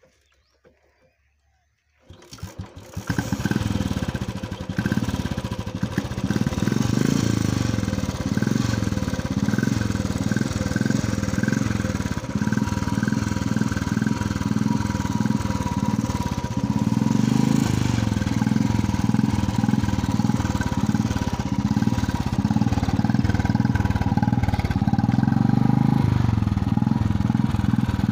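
Royal Enfield Bullet single-cylinder motorcycle engine starting about two seconds in, then running with a rapid, even thump and being revved.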